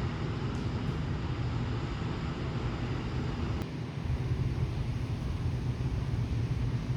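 Tokyo Kyushu Ferry Soleil under way in rough seas: a steady low drone under a continuous rushing noise, with a brief dip about three and a half seconds in.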